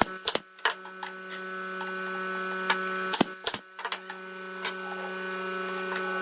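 A small electric motor running with a steady hum, broken by sharp clicks and knocks, stopping briefly about three seconds in before running again.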